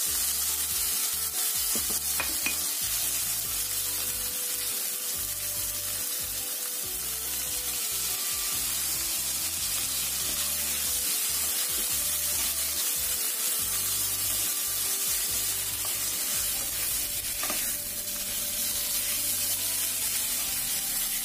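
Chicken and sausage slices sizzling steadily in hot oil in a frying pan, stirred and turned with a spatula.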